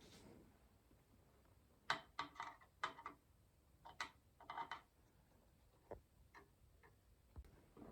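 Light clicks and taps of CPU cooler parts being handled, plastic and metal knocking together: a cluster of them from about two to five seconds in, then a few sparse ticks.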